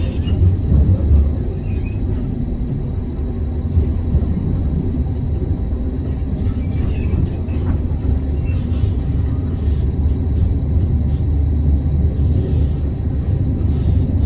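Tram running along the rails, heard from inside the car: a steady low rumble of the wheels and running gear.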